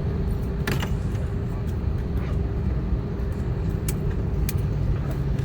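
Steady low rumble of airliner cabin noise inside an Airbus A321neo taxiing after landing, with a few light clicks.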